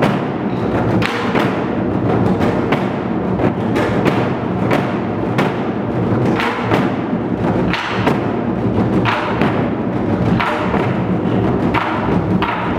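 Moduembuk ensemble: several players beating Korean barrel drums (buk) in a fast, driving rhythm, dense strokes with sharper clicks on top.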